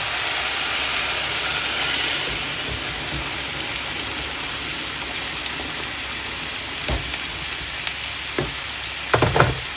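Steady sizzling hiss of food cooking in a pan on the stove, with a few short knocks in the last few seconds.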